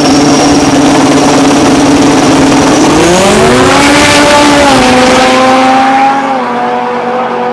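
Drag race car engine held at steady revs, then rising sharply about three seconds in. Its pitch dips briefly near five seconds, like a gear change, and it drops and quietens after about six seconds.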